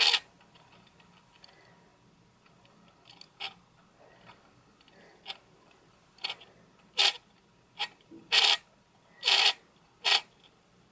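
Optical stabilisation (OSS) mechanism of a Sony SEL50F18 50mm f/1.8 lens grinding in short rasping bursts as it engages, about ten times, coming closer together and louder in the second half. The owner takes the grinding for louder than it should be, a sign that something is wrong with the lens's stabilisation motor.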